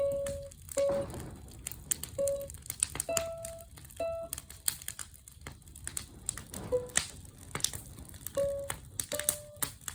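Short, clear single notes played one at a time on a small portable instrument, a slow simple tune. Sharp crackles and pops from a bonfire sound throughout.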